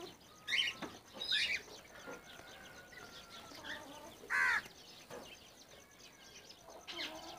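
Small birds chirping: a few short, high calls about half a second and a second in, and a louder one about four and a half seconds in.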